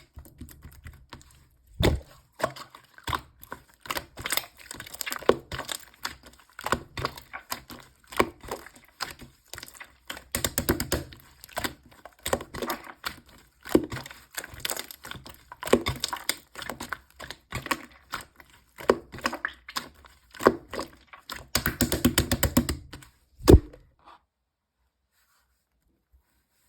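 Clear slime being pressed and poked by hand, making irregular clicking and popping sounds, with two denser stretches of crackling. One loud thump comes near the end, then the sound stops.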